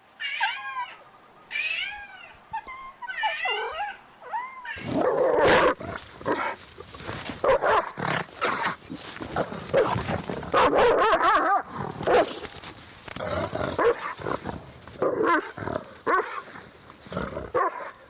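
Three short, high, bending meows from a cat in the first few seconds. Then, from about five seconds in, a dog barking and growling in a dense, rough run.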